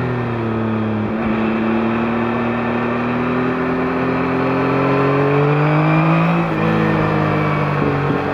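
2021 Yamaha MT-09's three-cylinder engine running through its stock exhaust while riding. The pitch sags early, then climbs slowly under throttle, and drops sharply about six and a half seconds in before steadying.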